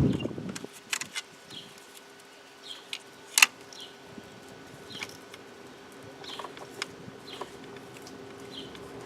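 Scattered light clicks and taps of hand work on the engine bay, with one sharp click about three and a half seconds in, over a steady low hum and faint repeated chirps.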